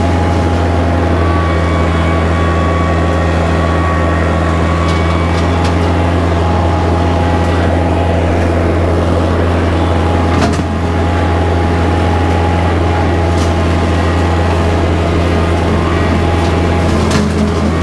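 Kubota tractor's diesel engine running steadily with a deep hum, driving a rotary cutter through brush. A few sharp clicks or snaps sound over it, and the engine note dips briefly about ten seconds in.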